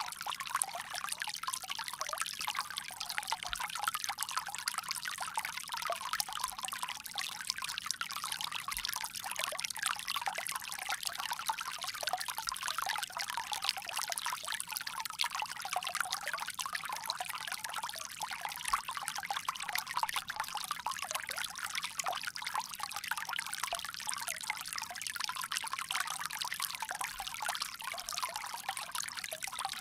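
Water pouring steadily from a bamboo spout, a continuous trickling splash with no let-up.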